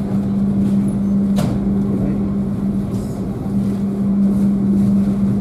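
Interior noise of a stainless-steel executive-class passenger train coach rolling slowly into a station: a steady low rumble with a constant hum over it, and a single sharp click about a second and a half in.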